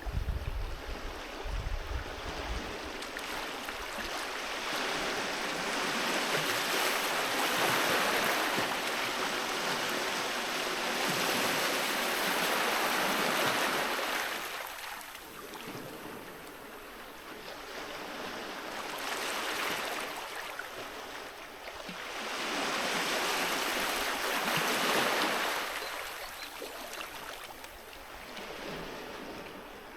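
Sea waves washing onto a beach, the surf swelling and fading in slow surges every several seconds.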